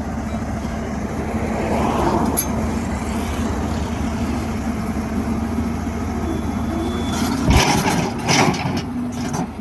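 Heavy diesel engine running steadily at a constant speed, with a short cluster of sharp knocks and hisses near the end.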